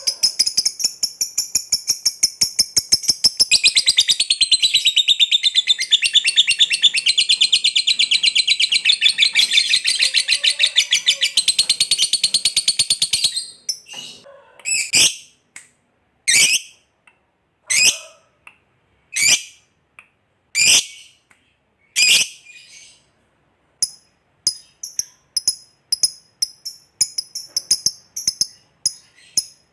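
Lovebird giving its 'ngekek' call: a long, rapid, high chattering trill lasting about thirteen seconds. It then breaks into six separate sharp calls about a second and a half apart, and finishes with quick repeated high chirps.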